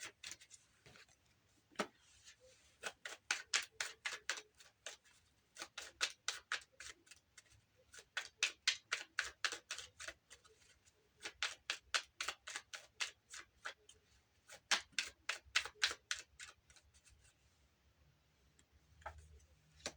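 Playing cards being shuffled: runs of quick, sharp clicks, about six a second, in bursts of two to four seconds with short pauses, trailing off near the end.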